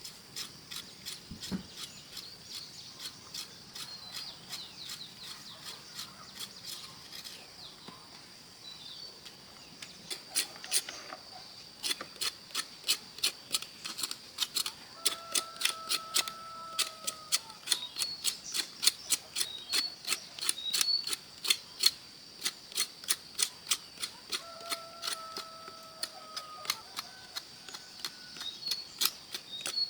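Sharp clicks or taps at a few a second, starting about a third of the way in, over a steady high-pitched drone. Twice a short pitched tone sounds over them.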